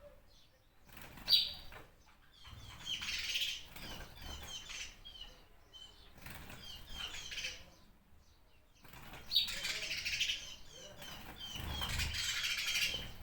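Birds chirping in short, repeated high notes, mixed with several longer bursts of rustling noise. There are two sharp, loud snaps, about a second in and about nine seconds in.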